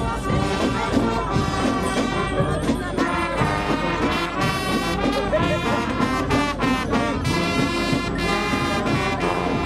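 Music with brass instruments, trumpets and trombones, playing.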